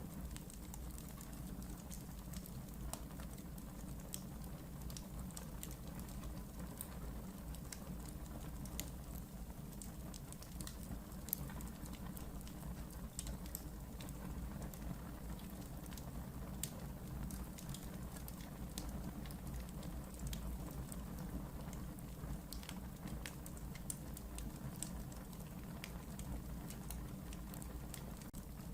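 Wood fire burning in a fireplace, with a steady low rumble under frequent small, irregular crackles and pops.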